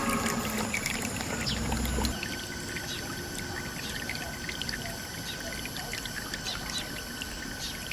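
Water pouring and trickling steadily, with many small splashes; some music plays under it for about the first two seconds.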